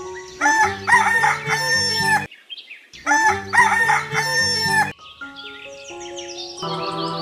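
A rooster crowing twice in identical copies, laid into a music track, followed by held musical notes near the end.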